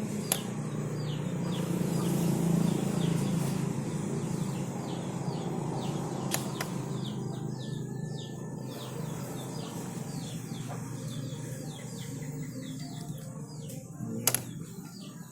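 Small birds chirping continuously in quick, short falling notes over a steady low hum, with a few sharp clicks or knocks, the loudest near the end.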